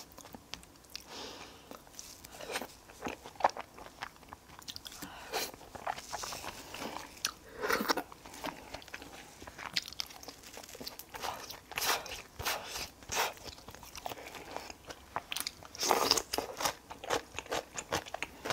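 Close-miked eating: a person biting and chewing mouthfuls of curry rice with chicken and sausage, heard as a run of short, irregular crunches and clicks.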